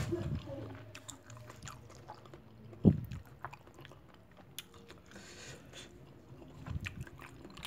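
A person chewing a mouthful of seblak close to the microphone, with scattered small crunchy clicks and a spoon working in the bowl; a single dull thump about three seconds in is the loudest sound.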